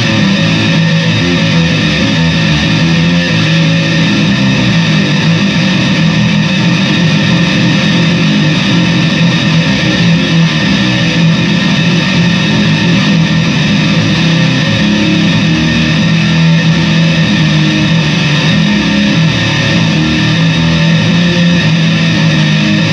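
Fender Squier VI six-string bass played through a plasma pedal and a RAT distortion pedal together, giving a loud, thick, heavily distorted tone with sustained notes and no pauses.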